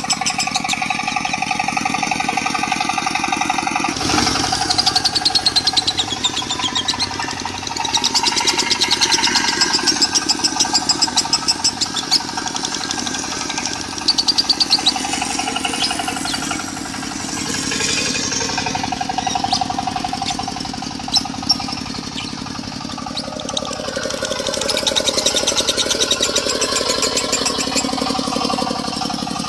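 Lovebird chattering in rapid, stuttering 'konslet' trills over a diesel engine running steadily underneath; the two are mixed together as a song-training recording.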